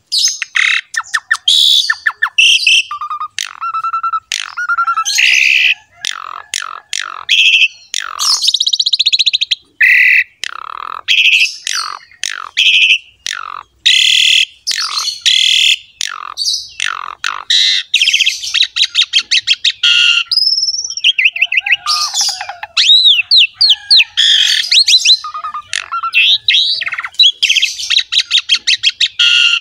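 Asian pied starling (jalak suren) singing a long, varied song of whistles, harsh squawks and fast chattering runs, with only brief gaps. Several rising and falling whistled glides come near the middle.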